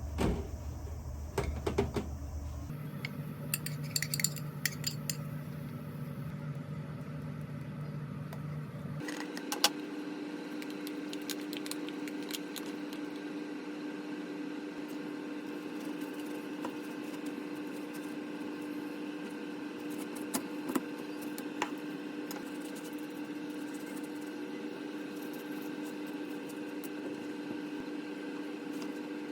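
Kitchen handling sounds: scattered light clinks and taps of dishes and utensils over a steady hum, with the background changing abruptly twice in the first nine seconds.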